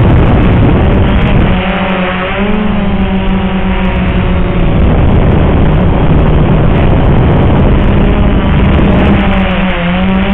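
XK X380 quadcopter's electric motors and propellers humming, the pitch shifting up and down as the motors change speed, under heavy wind rush on the microphone.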